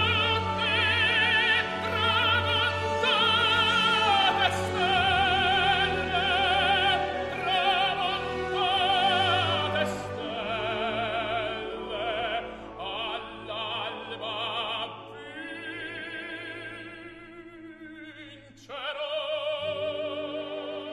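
Operatic singing with heavy vibrato over held orchestral tones. It grows quieter partway through, then a sudden swooping sound about 19 seconds in leads into a louder sung phrase.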